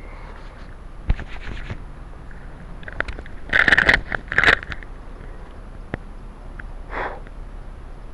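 Handling noise close to the microphone: rustling and scraping, with a knock about a second in and the loudest stretch about halfway through, as the camera is shaken and a hand wipes across the face.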